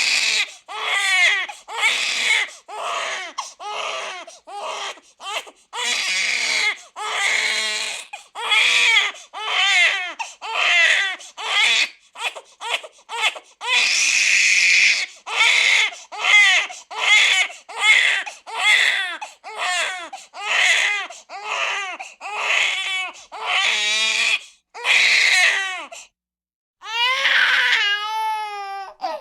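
Infant crying hard in a run of short, high-pitched wails, about one a second. Near the end it stops briefly, then a baby's voice starts again with a wavering, warbling pitch.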